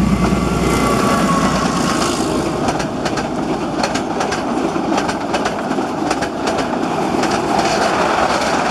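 Metre-gauge passenger coaches rolling past, their wheels clicking rapidly over rail joints. The low rumble of the YDM-4 diesel locomotive's engine dies away in the first second or so.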